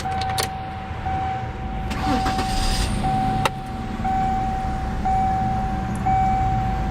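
Car's electronic warning chime, one steady tone repeating about once a second, over the low, steady idle of the 2001 Mercury Cougar's 2.5-litre Duratec V6. A sharp click about three and a half seconds in.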